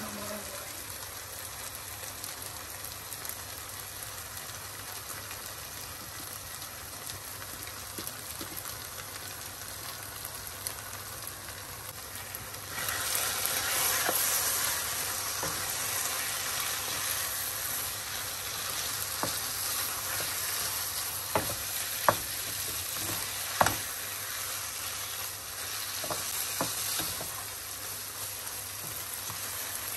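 Potato keema and grated egg sizzling in a non-stick wok while being stirred with a wooden spoon. The sizzle grows louder about halfway through, and a few sharp knocks come near the end.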